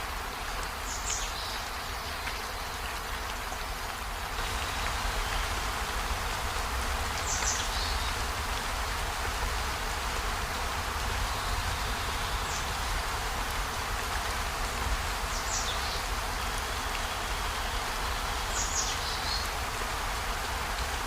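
Steady rain falling, growing a little heavier about four seconds in, with five short high chirps spaced a few seconds apart.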